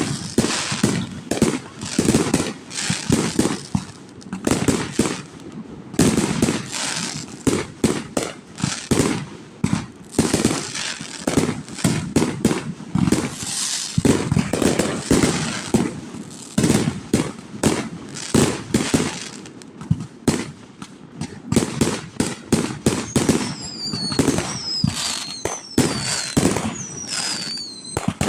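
Fireworks display: a rapid, unbroken run of booms and crackling bangs, several a second. Near the end, high whistles falling in pitch repeat over the bangs.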